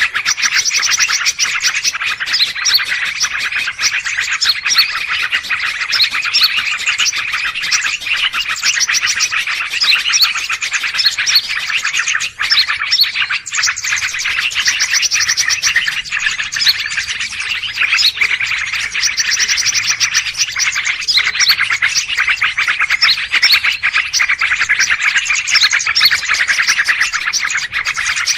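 A dense, noisy chorus of many small birds chirping, trilling and chattering over one another without a break, the busy 'ribut' mix used as a lure recording to draw wild birds in.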